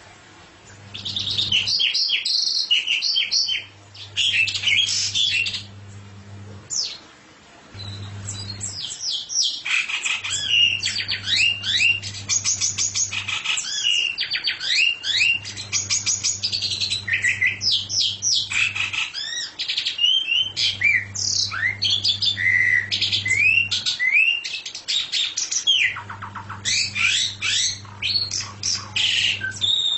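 A songbird singing a rapid chattering song of quick chirps and short sweeping whistles. The song comes in short phrases at first and runs almost unbroken from about ten seconds in. A low steady hum sits under the singing.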